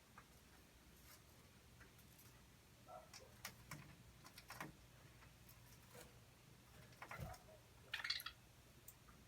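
Faint scattered clicks and ticks from budgerigars moving about, with a brief soft chirp about eight seconds in.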